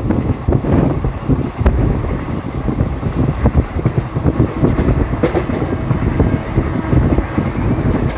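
Moving train heard from on board: a steady, heavy low rumble of wheels on the track, with frequent irregular clatter and knocks.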